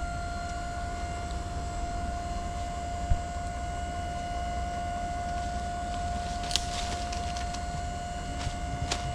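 Dump truck running with a low engine rumble under a steady high-pitched whine, with a single thump about three seconds in and a few light clicks later on.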